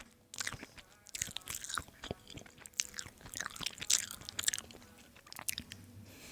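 Close-miked chewing, wet smacks and soft crunches of someone eating tiger-skin fried tofu, a crisp skin over soft juicy tofu, in irregular bites.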